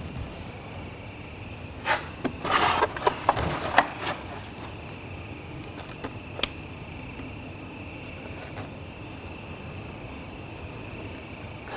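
Steady high insect chirring, with a short burst of rustling and sharp clicks about two seconds in, and one more click a few seconds later.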